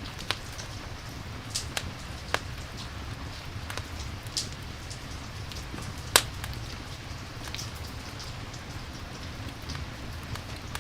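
Rain-and-campfire ambience: steady rain with irregular sharp crackling pops from a wood fire, the loudest about six seconds in.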